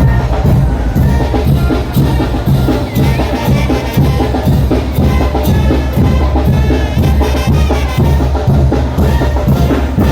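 Mexican brass band playing a son de chinelo, with a steady bass drum and cymbal beat under the horns.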